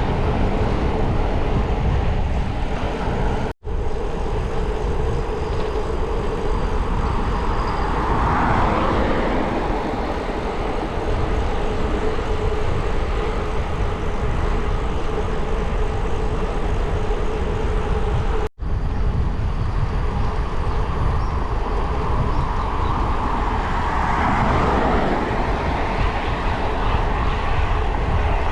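Wind rushing over the microphone and tyre and road noise from a bicycle being ridden, steady throughout, broken twice by a brief gap.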